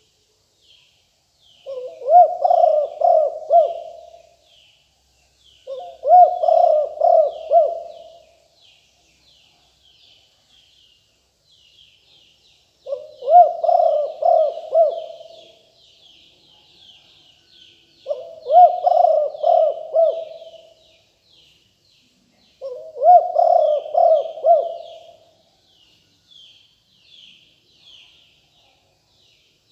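Spotted dove cooing: five phrases of several quick coos, each about two seconds long and a few seconds apart. Fainter, rapid chirping of other small birds goes on throughout.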